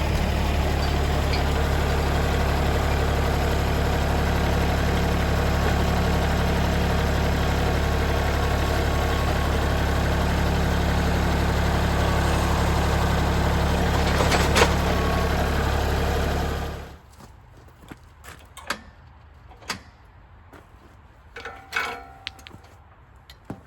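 An engine idling steadily, then stopping abruptly about 17 seconds in, followed by a few faint knocks and clicks.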